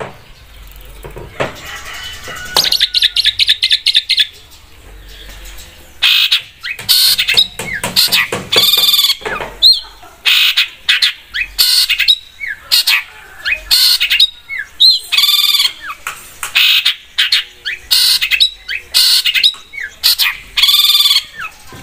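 Long-tailed shrike (cendet) singing a loud, varied, chattering song of quick whistles and harsh notes. A fast run of repeated high notes comes a few seconds in, and the full song starts about six seconds in. This is the bird singing at full strength, the kind of recording played as a lure to set other cendets singing.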